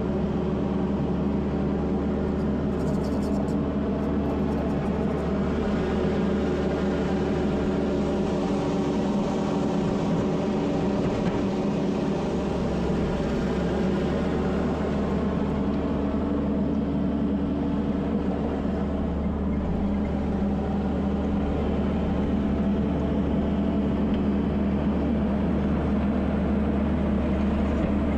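Kubota SVL75-2 compact track loader's diesel engine running steadily at working speed, its note wavering briefly about ten to thirteen seconds in.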